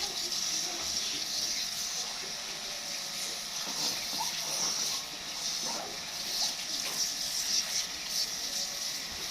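A steady spray of water hissing as it washes a motor scooter.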